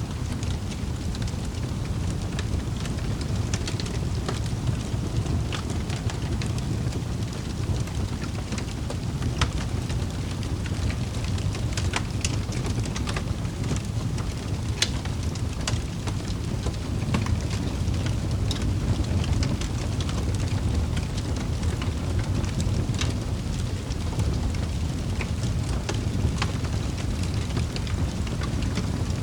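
Wood fire in a fireplace crackling: a steady low rush of flames with scattered sharp pops and snaps of burning wood.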